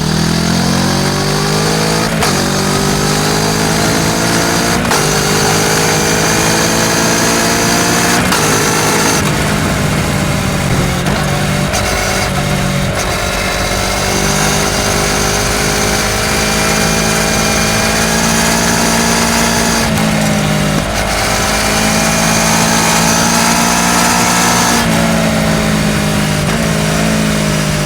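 Kawasaki Ninja 650's parallel-twin engine through a full Akrapovič exhaust, recorded at the exhaust: the bike accelerates hard, its pitch climbing and dropping back at each upshift three or four times in the first nine seconds, then runs on at steady road speed with gentle rises and easings of the throttle.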